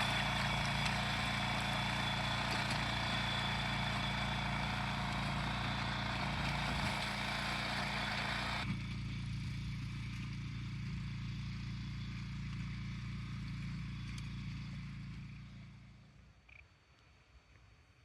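A steady engine drone with a low hum; its higher, hissier part drops away suddenly about halfway through, and the rest fades out near the end.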